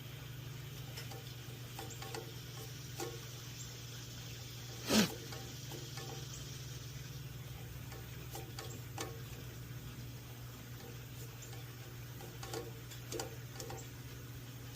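Scattered light clicks and knocks of hand tools on metal over a steady low hum, with one short, louder scraping squeak about five seconds in.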